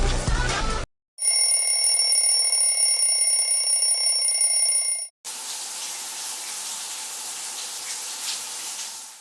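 A steady, high ringing tone for about four seconds, then a steady rush like water running from a tap for about four seconds.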